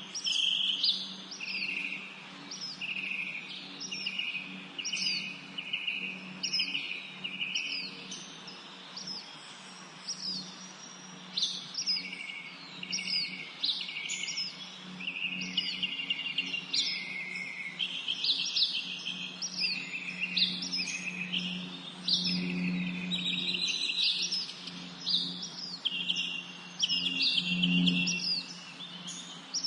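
Songbirds singing in a forest, with a short song repeated about once a second: a quick downward-sweeping note followed by a buzzy trill. After a brief lull, several birds overlap. A steady low hum runs underneath.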